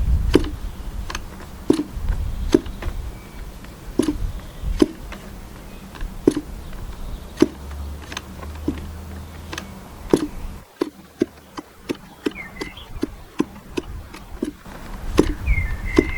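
Propeller of a K&B .40 glow engine being flipped over by hand, each flip giving a sharp click, irregularly spaced and coming faster after about ten seconds; the engine never fires. A low wind rumble lies under the first two thirds, and two short high chirps come near the end.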